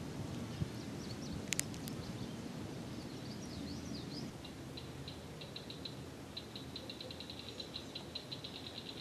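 Wild animal calls over a low outdoor background: a few short high chirps, then a fast, high-pitched ticking trill that runs on from about halfway through. A couple of sharp clicks come about a second and a half in.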